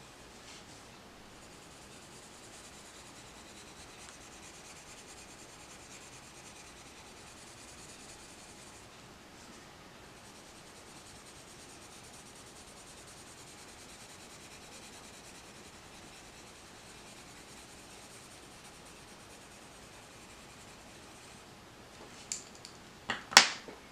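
Coloured pencil shading on paper: a faint, steady scratchy rubbing with a couple of short pauses. A few sharp clicks near the end.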